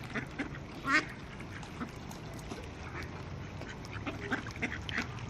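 Ducks quacking in short scattered calls, the loudest about a second in.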